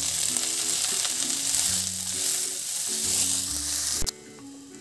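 Oil sizzling in a kadhai as freshly added chopped tomatoes fry with browned onions, cashews and green chillies. The sizzle cuts off suddenly about four seconds in.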